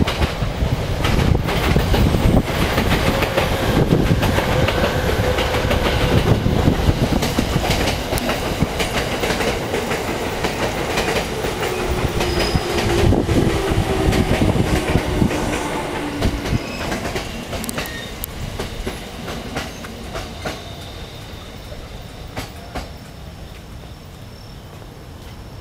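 Sobu Line electric commuter train running into the station: wheels rumbling and clicking over the rail joints, with a whine that falls slowly in pitch as the train brakes. The noise dies away over the last several seconds as it slows to a stop.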